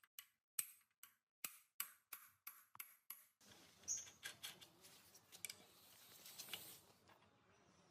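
Faint, sharp clicks and taps, about three a second for the first three seconds, then a faint rustling bed with a few scattered ticks.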